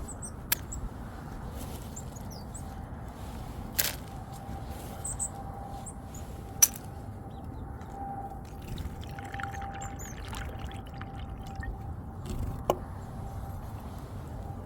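Outdoor ambience with a steady low hiss, faint high chirps of small birds now and then, and a few sharp clicks or taps, the loudest about two-thirds of the way through.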